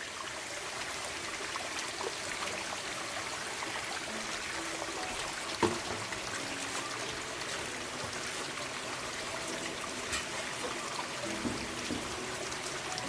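Water running and trickling steadily, with a single sharp knock about halfway through.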